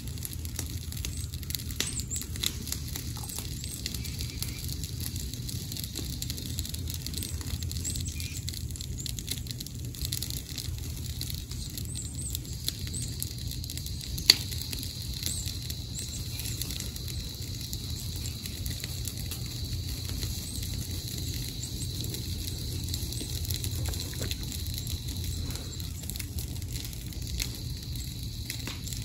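Light crackling and rustling of dry leaf litter over a low rumble on the microphone, with one sharp click about fourteen seconds in.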